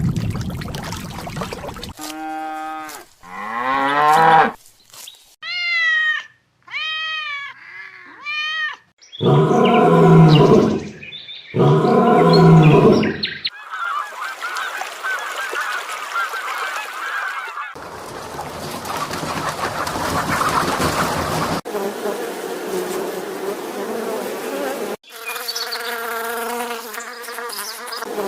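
A run of short animal and bird calls cut one after another, including two loud honking calls, with stretches of rustling noise between.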